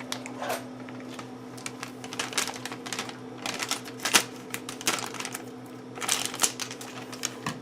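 Cereal packaging being opened and handled: irregular crinkling and clicking in short clusters, with a faint steady hum underneath.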